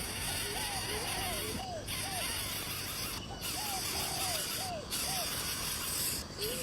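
A bird calling with short, curved whistled notes, about two a second, over a steady high insect hiss.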